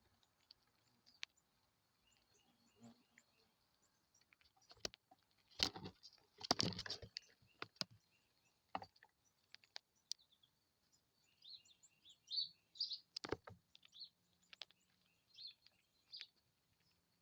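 Faint bird chirps, a run of short high calls in the second half. Several sharp clicks or knocks are mixed in, the loudest a cluster about six to seven seconds in.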